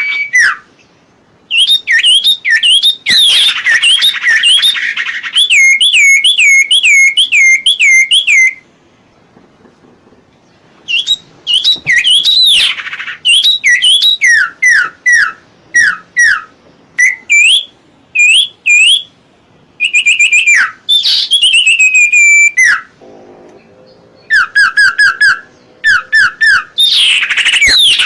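Common iora (cipoh) singing: loud phrases of quickly repeated, clear whistled notes, many sliding down in pitch, separated by short pauses.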